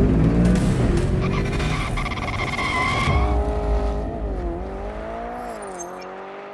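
Intro sound effect of a racing car: engine revving with tyres skidding and squealing, then a single engine note that wavers up and down in pitch and fades away.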